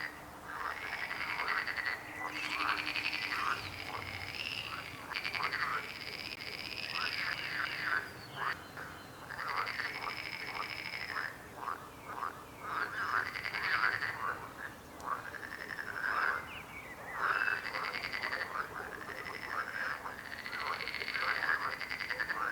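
A chorus of frogs croaking, several calling at once in overlapping phrases of rapid pulsed croaks, each phrase lasting a second or two.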